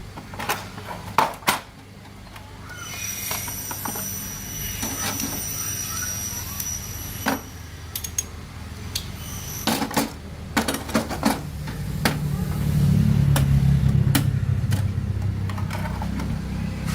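Scattered knocks and clanks of tools on metal in a workshop, with a low rumble that swells about twelve seconds in.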